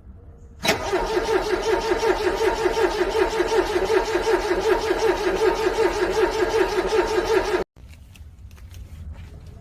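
Car engine cranking over on the starter in a fast, even rhythm for about seven seconds without catching, then stopping abruptly: a cold engine failing to start.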